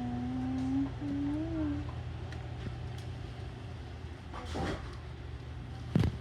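A voice humming a few held notes for the first two seconds, over a steady low hum; a couple of knocks near the end.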